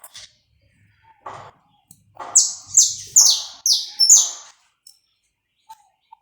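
Saffron finch (canário-da-terra) singing: a few short notes, then a run of about five loud notes, each sweeping down in pitch, coming a little under half a second apart, ending about halfway through.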